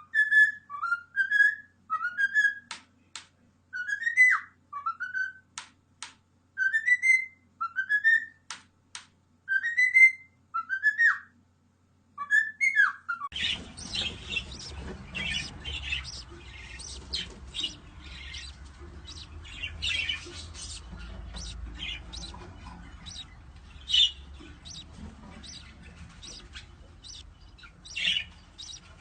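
Pet bird whistling a short rising phrase again and again, about once every second and a half. About 13 seconds in the sound changes abruptly to a bird's rapid chirps and squawks over a low background rumble.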